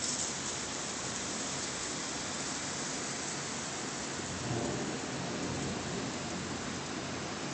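Storm rain and wind, a steady rushing hiss, with a low rumble swelling about four and a half seconds in.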